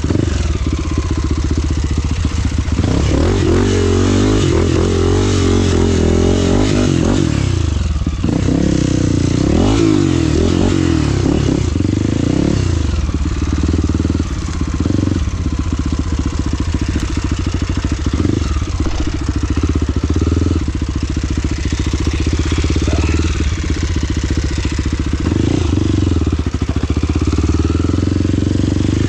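Off-road motorcycle engine running under way, its pitch rising and falling again and again as the throttle opens and closes.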